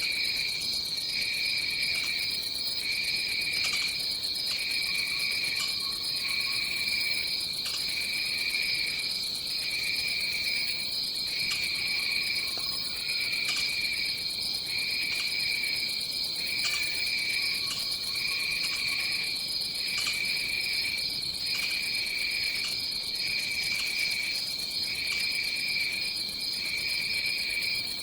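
Tropical rainforest insect chorus: a steady high-pitched buzz, with a lower trill pulsing on and off about every second and a half. A few faint, short lower calls come and go.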